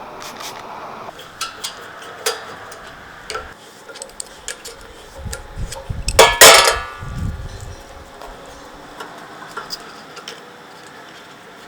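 Metal tools and parts clicking and clinking as a rusty old bandsaw is taken apart, with a louder metallic clank about six seconds in that rings briefly.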